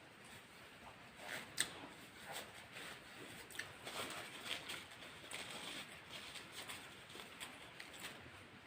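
Close-up eating noises: chewing and mouth sounds with scattered small clicks and rustles.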